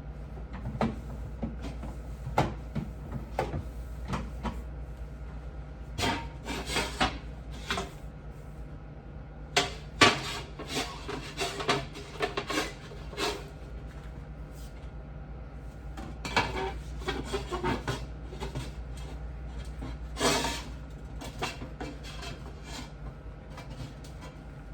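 Hand scrubbing and wiping during refrigerator cleaning: groups of rubbing strokes mixed with light knocks and clatters, separated by short pauses, over a steady low hum.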